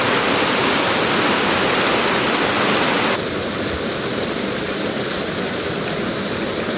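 Heavy rain falling as a steady, dense hiss. About three seconds in it changes abruptly to a slightly quieter, thinner rain sound, as at a splice between two recordings.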